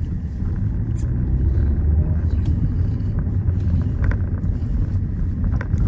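Low, steady engine and road rumble heard from inside a moving Peugeot 207 hatchback, with a few faint ticks. The car runs over bumps without knocks or bangs from the suspension.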